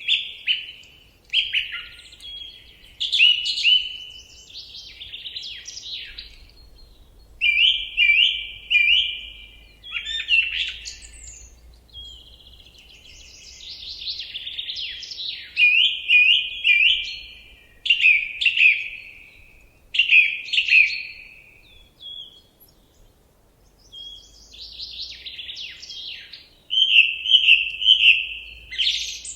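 A songbird singing a string of short, varied phrases of high whistled notes. Many phrases are a note repeated quickly three or four times, with brief pauses between them.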